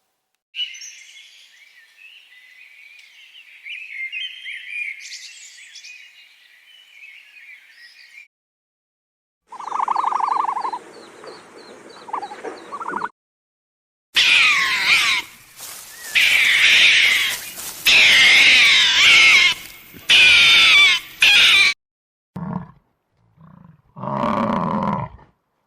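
A run of separate animal-call clips. High chirping calls come first, then a loud, dense chorus of high gliding calls, then a few shorter, lower calls near the end.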